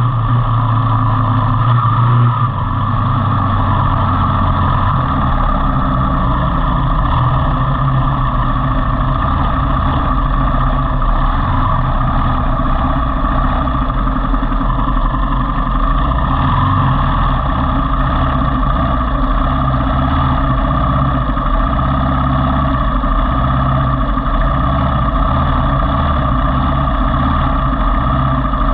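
Motor vehicle engine running steadily on the move, its low tone shifting slightly in pitch now and then.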